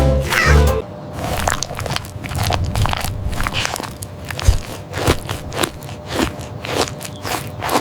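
A pitched sound carried over from before cuts off under a second in. Then comes a run of irregular short crunches, about two or three a second, like steps or bites on something dry and crisp.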